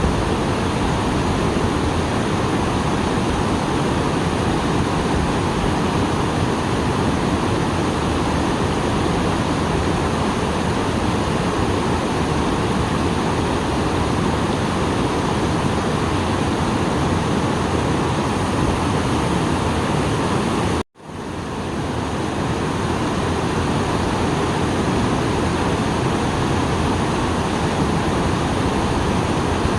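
Small waterfall swollen after rain, its water falling in a steady, even rush. It cuts out for an instant about two-thirds of the way through and quickly fades back in.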